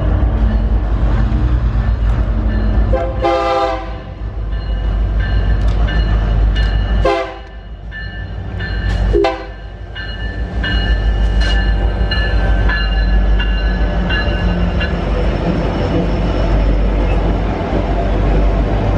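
Freight train rolling past close by, a steady low rumble from the wagons and wheels throughout. Three short pitched sounds come about 3, 7 and 9 seconds in, and thin high squealing tones run through the middle.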